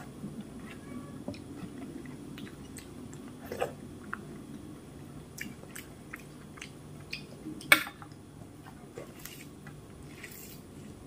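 Close-miked chewing of soft rice soaked in milk, with wet squishing as fingers mix rice and milk in a steel bowl. Scattered sharp clicks, the loudest a little before 8 seconds in.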